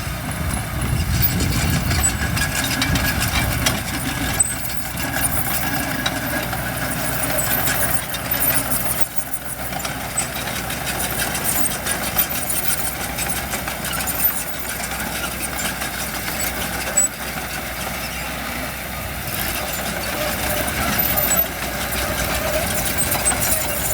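Diesel engine of heavy construction equipment running steadily, with a stronger low rumble in the first few seconds.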